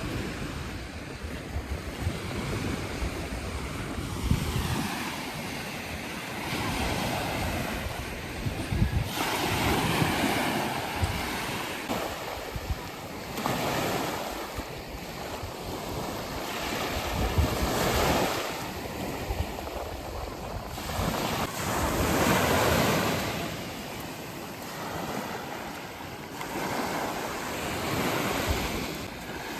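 Sea waves washing in, swelling and falling back every few seconds, with wind rumbling on the microphone.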